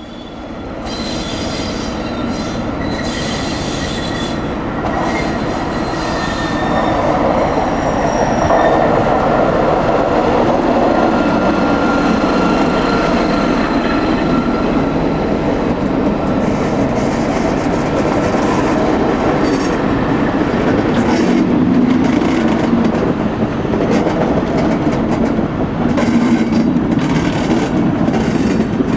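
Slam-door CIG electric multiple unit coaches hauled by a Class 73 electro-diesel locomotive, rolling along the track. The wheels run on the rails with faint high-pitched squeals. The sound grows louder over the first several seconds and then holds steady.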